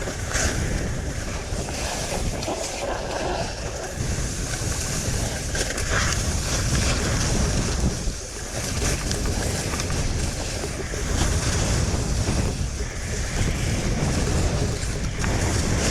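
Strong gusty wind buffeting the microphone in a steady low rumble, with the hiss of skis sliding over snow.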